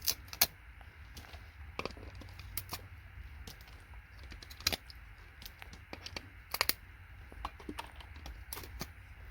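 Irregular sharp clicks and taps, about two a second at uneven spacing, over a faint steady hiss and a low hum.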